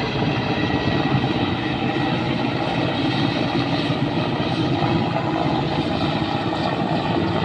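Helicopter's rotor and turbine engine running, a loud steady drone.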